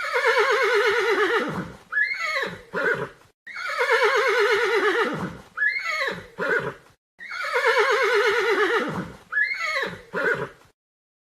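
A horse whinnying: a long, wavering neigh that falls in pitch, followed by two short calls. The same recording plays three times in a row.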